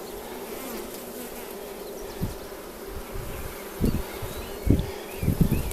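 A honeybee colony in an opened hive, buzzing in a steady hum. Several low thumps break in over the second half.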